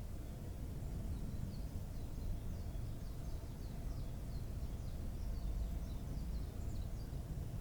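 A small bird calling a long series of short, faint, high chirps, about two a second, from about a second and a half in until near the end, over a steady low outdoor rumble.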